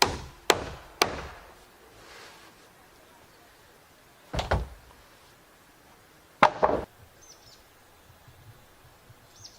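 Hammer blows driving nails into wood: three quick strikes about half a second apart, a single blow a few seconds later, then two close together.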